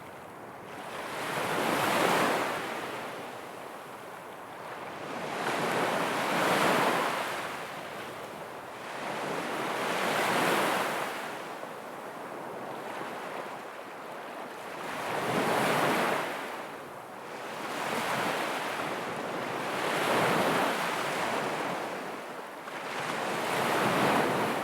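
Ocean waves breaking and washing in, swelling and falling away about every four to five seconds over a steady hiss.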